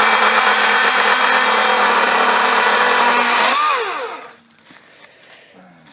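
A motor running steadily at high speed, then shut off about three and a half seconds in, its pitch falling quickly as it winds down to a stop.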